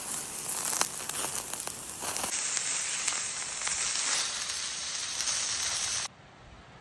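Food frying: a steady sizzle with scattered sharp crackles, cutting off abruptly near the end.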